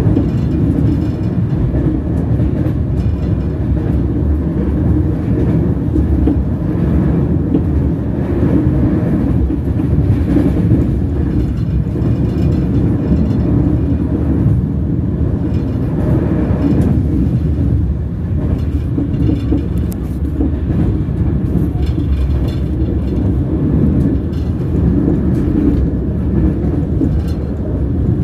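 Train wheels rolling on the rails: a steady, loud low rumble with faint irregular clicks.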